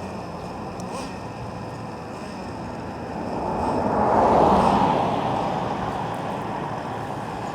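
A vehicle passing by: a rushing noise that swells to a peak about halfway through and then fades.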